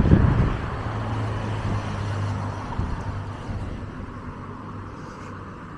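A motor vehicle's engine running close by, loudest at the start and fading away as it moves off, over general street traffic noise.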